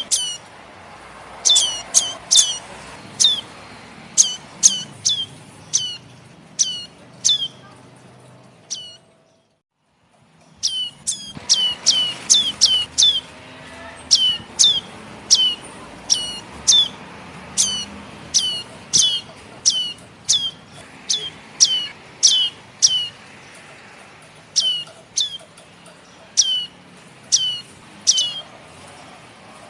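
Young prenjak (prinia) chicks calling: short, high chips that fall sharply in pitch, repeated about once or twice a second, often in quick pairs. The calls stop for a moment near the middle, then resume.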